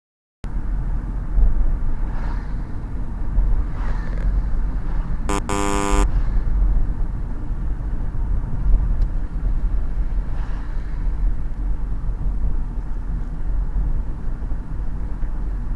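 A steady low rumble, with one short horn-like toot lasting under a second about five seconds in.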